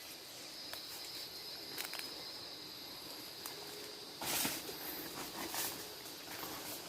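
Steady high-pitched drone of forest insects, with scattered light rustles and clicks of steps through leaf litter and a louder rustle about four seconds in.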